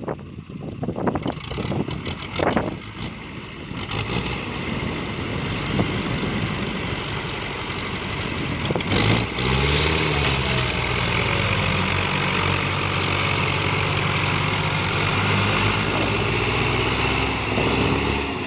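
Diesel tractor engine running under heavy load; about nine seconds in its pitch rises and dips, then it holds a steady, loud run.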